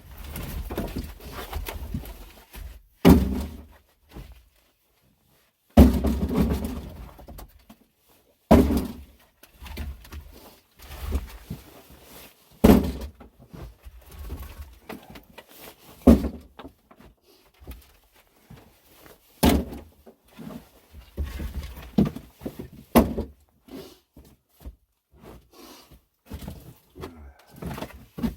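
Split firewood being handled: irregular wooden thunks every few seconds as pieces are picked up and dropped, with softer knocking and rustling between them.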